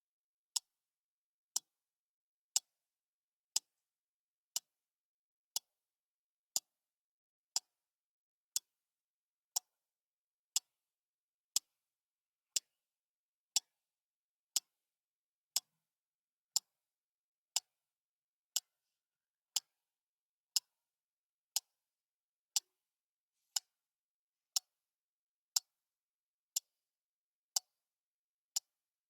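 Clock ticking steadily, one short, sharp tick each second with silence between the ticks.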